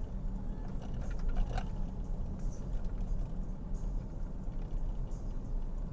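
Car running at low speed, heard from inside the cabin: a steady low rumble of engine and tyres, with a few faint clicks, the clearest about a second and a half in.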